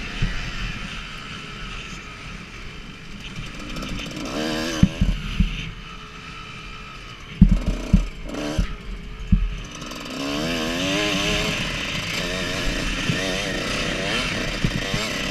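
Motocross dirt bike engine revving up and down as the bike is ridden, its pitch rising and falling in waves, with a cluster of sharp thumps about halfway through.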